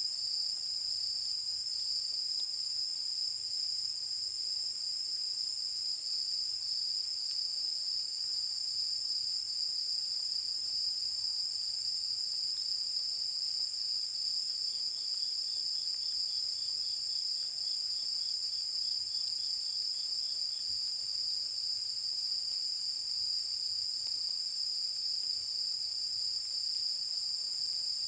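A chorus of night insects in a rural field, a steady high-pitched trilling without a break. From about 15 to 21 seconds in, a fainter, lower chirp pulses along at about three beats a second.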